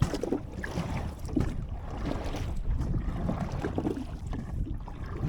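Water splashing and sloshing against a small boat as it is paddled by hand with a plastic jug used as a paddle, in uneven strokes, with wind rumbling on the microphone.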